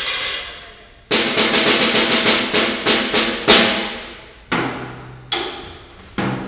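Drum kit: a cymbal rings out and fades, then a quick run of drum hits, about four a second, leads into a loud crash about three and a half seconds in. Three spaced strikes follow, the last two with a low ringing tone under them.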